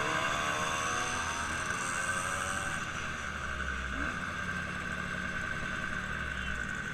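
A motor vehicle's engine running, its pitch rising over the first couple of seconds and then holding steady, with a constant high whine over it.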